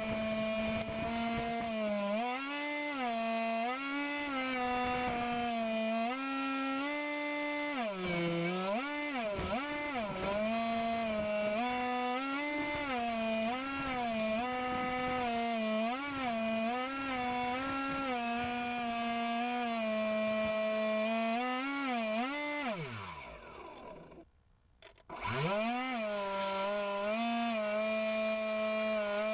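RC air boat's motor and propeller running, the pitch rising and falling over and over with the throttle. About 23 seconds in it winds down almost to a stop, then spins back up.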